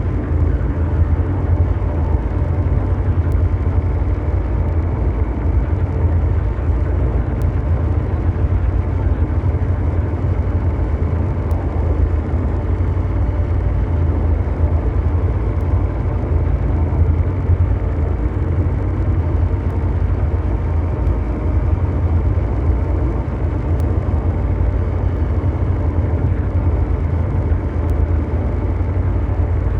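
Continuous ambient mechanical drone: a deep, steady engine-like rumble of brown noise, with a faint steady hum of tones above it. It does not change.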